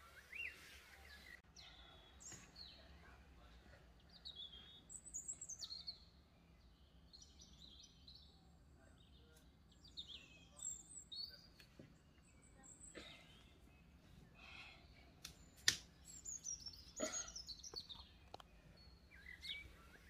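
Faint, scattered birds chirping: short high calls that slide up and down in pitch, coming and going. A single sharp click about three-quarters of the way through.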